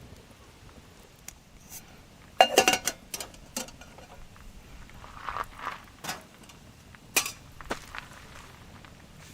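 A series of sharp clinks and knocks of camp cookware and utensils being handled, the loudest cluster about two and a half seconds in, with single knocks after it and a brief rustle in the middle.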